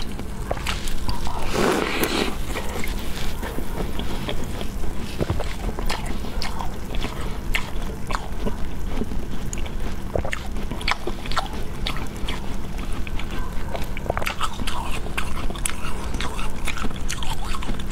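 Close-miked biting and chewing of a crisp fried piece of food: a louder bite about two seconds in, then continual crunching with many small crackling clicks, over a low steady hum.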